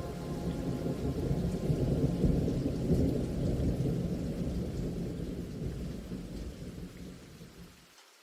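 Rolling thunder over steady rain. The low rumble swells about two to three seconds in, then slowly fades and cuts off near the end.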